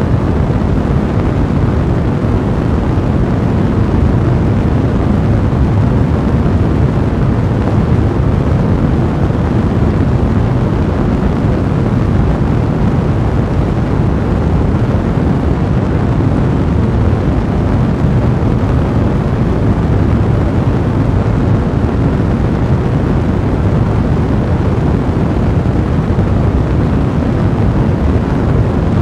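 A fireplace fire blazing, a steady low rumbling rush of flame without distinct pops.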